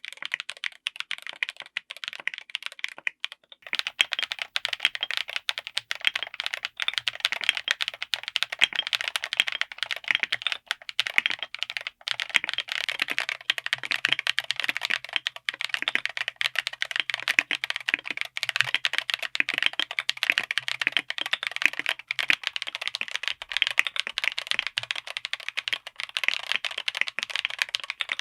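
Typing on a mechanical keyboard fitted with tactile switches: a few scattered keystrokes at first, then fast continuous typing from about four seconds in.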